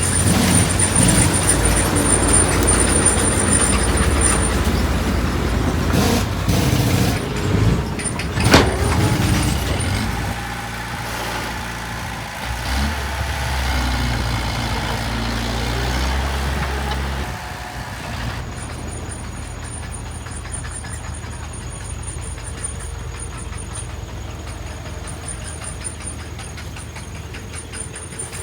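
Heavy diesel construction machinery running, loudest in the first ten seconds, with one sharp hiss-like burst about eight seconds in. The engines then drop to a lower steady drone, and go quieter again about two-thirds of the way through.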